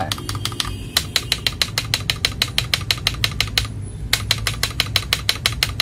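Typing on a mechanical keyboard fitted with premium keycaps: a quick run of keystrokes at about five or six a second, with a short pause about two-thirds of the way through. This is a sound test of the keycaps.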